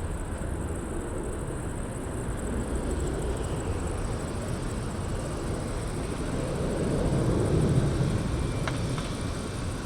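Gulfstream G550 business jet's twin Rolls-Royce BR710 turbofans, heard as a steady low jet rumble as the aircraft departs after takeoff. The rumble swells about seven seconds in.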